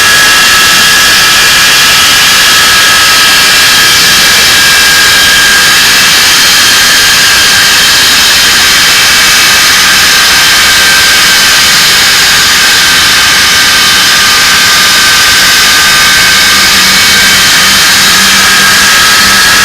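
English Electric Lightning's Rolls-Royce Avon turbojets running on the ground, a very loud, steady jet roar with a high whine; the whine's pitch dips slightly and climbs again near the end. The engines are running again for the first time in about 30 years.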